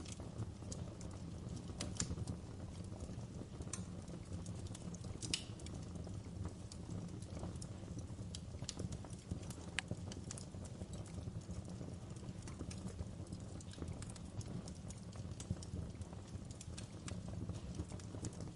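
Wood fire burning: a steady low rumble of the flames with irregular sharp crackles and pops from the burning logs.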